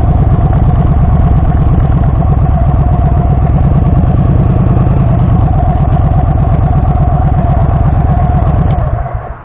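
Motorcycle engine running steadily with an even low throb, then cutting off about nine seconds in.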